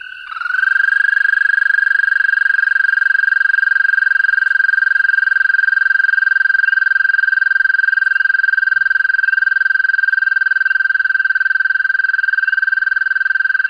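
American toad trilling: one long, high-pitched, steady trill that starts a moment in and is pretty long.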